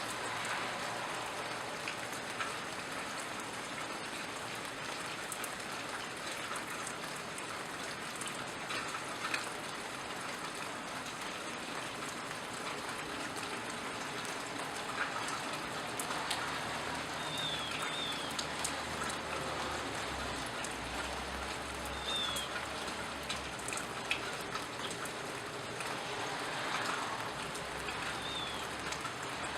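Steady rain falling, with individual drops dripping onto surfaces. About halfway through a low, steady rumble comes in underneath, and a few short, high chirps sound in the second half.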